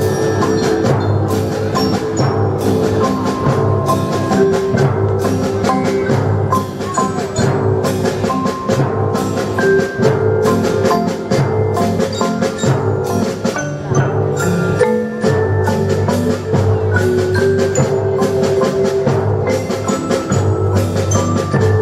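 Percussion ensemble playing a piece on mallet instruments such as marimba and xylophone, over a steady bass, with drum and wood block strokes.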